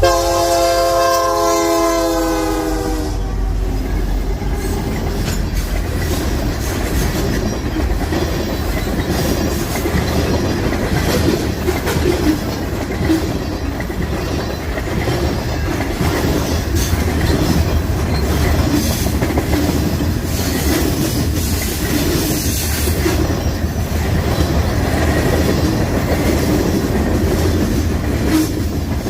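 Diesel locomotive air horn sounding one chord of several notes for about three seconds, then the steady rumble and wheel clatter of the train rolling past.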